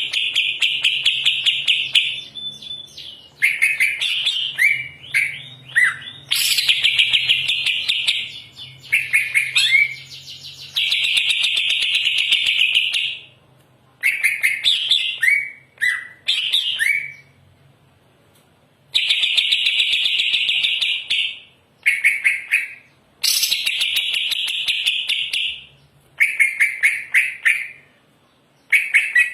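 Green leafbird (cucak ijo) singing loudly and continuously, pouring out its varied repertoire. The song comes in one-to-three-second bursts of fast, rapidly repeated high notes, broken by short pauses and interspersed with runs of quick downward-slurred whistles.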